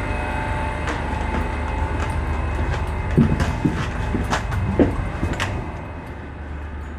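A standing passenger train's steady low hum, with scattered clicks and knocks, a few louder ones in the middle; the hum eases a little near the end.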